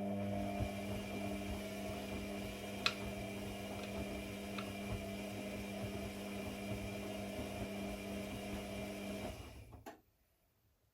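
Electric motor humming steadily at one unchanging pitch, with a couple of light clicks a few seconds in, then switching off near the end.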